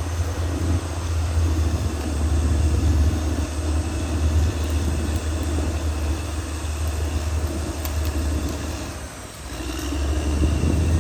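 Caterpillar D6R XL bulldozer's diesel engine working with a steady deep drone. It eases off briefly about nine seconds in, then picks back up.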